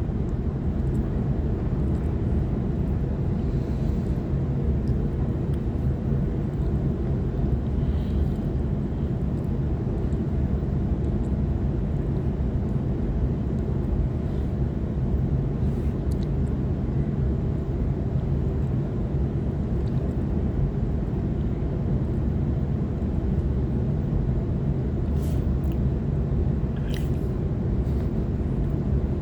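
Steady running rumble of a Waratah electric multiple-unit train travelling along the track, heard from inside the carriage, with a few faint clicks near the end.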